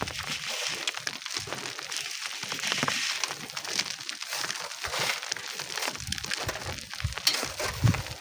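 Gritty crunching and scraping of sand and stones, with many small clicks and knocks close together.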